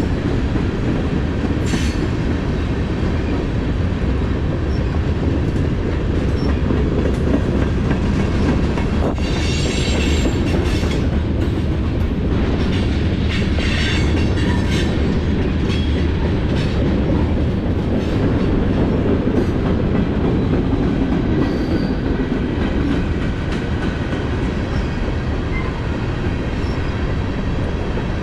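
Freight train rolling past on the rails: a steady low rumble of steel wheels, with a few short wheel squeals and clanks around the middle.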